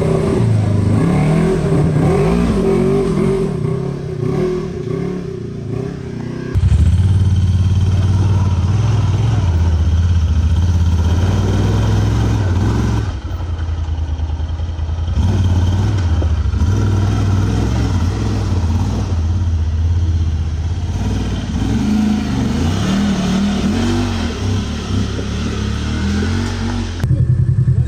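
Side-by-side UTV engine running on the trail, revving up and down, with the sound changing abruptly in level a few times.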